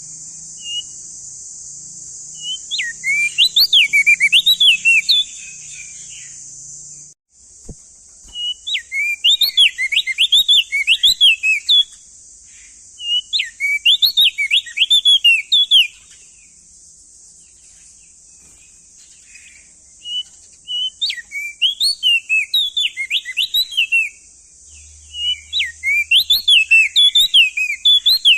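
Opior jambul (crested heleia) singing in five bouts of rapid, sharp notes that sweep up and down, each bout a few seconds long, with short pauses between. A steady high hiss runs underneath.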